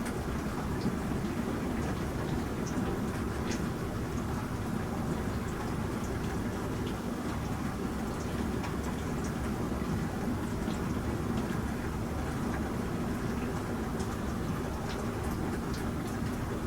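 Bosch Serie 4 SMS46MW05G dishwasher running a wash: a steady rush of water sprayed inside the tub over a low rumble, with scattered small ticks of droplets.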